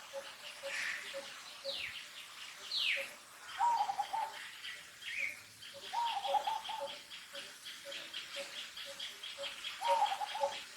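Bird calls: a short warbling call repeated three times, a few seconds apart, over a steady rhythmic chirping that pulses several times a second. Two brief falling squeaks come about two and three seconds in.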